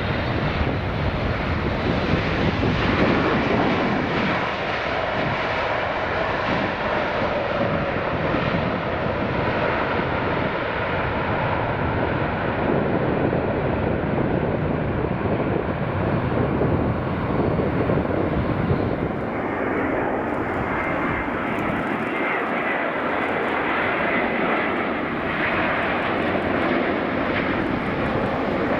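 Jet airliner engines passing close overhead on approach, a steady jet noise with faint shifting whine tones: a Boeing 777 freighter, then, a little over two-thirds of the way through, an Airbus A350 with a different engine sound.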